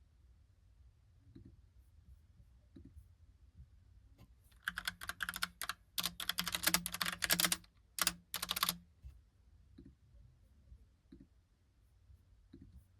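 Logitech Pop Keys typewriter-style mechanical keyboard being typed on: a fast run of keystrokes from about four and a half seconds in to nearly nine seconds, with a few scattered faint clicks before and after.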